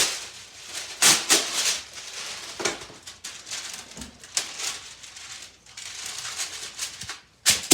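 Rustling and crinkling handling noise in several bursts, the loudest about a second in and near the end.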